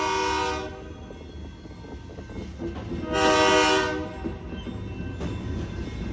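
Pioneer Valley Railroad locomotive horn sounding for a grade crossing: a blast that cuts off about half a second in, then a shorter blast about three seconds in. The train's rumble and rail clatter fill the gaps between blasts.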